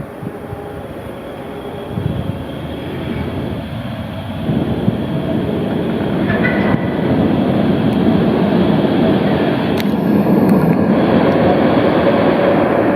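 Tram running along its rails and coming closer, its rumble growing steadily louder, with a short high squeal about six and a half seconds in.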